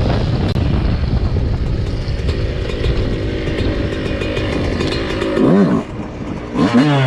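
Dirt bike engine running under a steady throttle with a rough rumble, then a quick rev up and back down about five seconds in, a brief drop, and the revs climbing again near the end.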